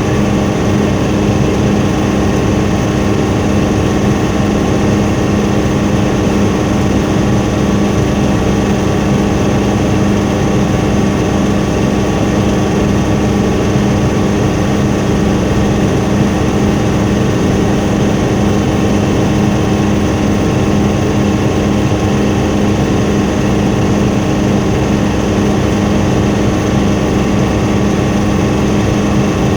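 Helicopter engine and rotor noise in flight, heard from on board: a loud, steady drone with a few constant tones over a dense rushing noise, unchanging throughout.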